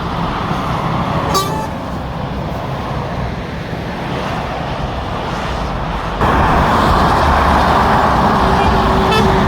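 Motorway traffic passing below, a steady rush of tyres and engines that jumps suddenly louder about six seconds in as a heavy vehicle goes by close.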